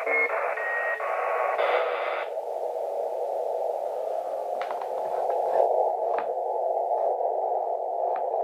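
Amateur radio receiver hiss (band noise) coming through its loudspeaker. About two seconds in, the hiss narrows to a thinner, lower band, as when a narrow receive filter is switched in. A few faint clicks come near the end.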